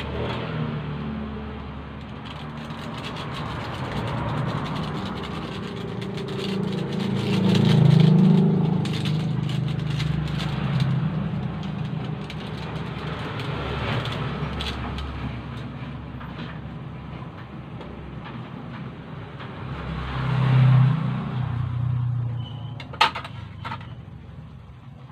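Chicken and potatoes frying in a wok, a crackling sizzle with many small pops. A low rumble swells and fades twice, and there is one sharp click near the end.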